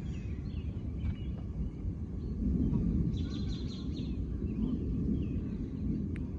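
Outdoor ambience: a steady low rumble, with birds chirping now and then and a quick run of calls about three seconds in.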